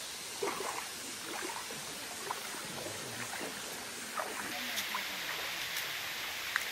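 Shallow stream water rushing steadily, with small scattered splashes and gurgles.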